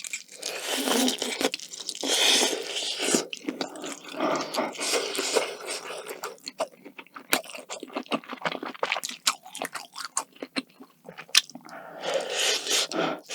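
Close-miked biting and chewing of a bite of grilled whole Spam, with crunching and many sharp mouth clicks in an irregular rhythm.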